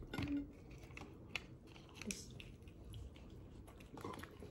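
Quiet chewing of fried chicken, with a few scattered soft clicks and crunches.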